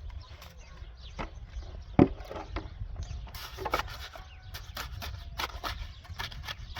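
Irregular knocks, clicks and scraping, one loud knock about two seconds in, over a steady low rumble.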